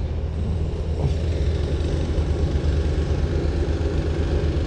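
An engine running steadily, a low hum with a fast, even throb.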